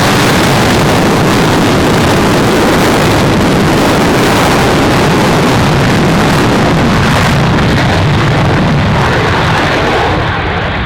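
Military aircraft's engines at full power on the takeoff roll: a loud, steady rush of noise that eases slightly near the end.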